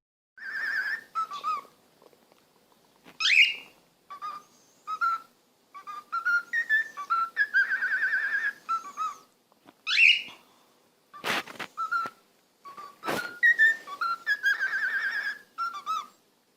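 Pet parrot whistling a string of warbling, tune-like notes with short pauses, with two quick upward swoops and a couple of sharp clicks.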